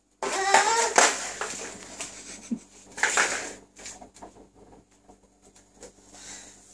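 Plastic pot noodle pots clattering and crinkling as they are handled and knocked about, with a short high-pitched vocal squeal at the start; a second burst of rattling comes about three seconds in, then it tails off to faint taps.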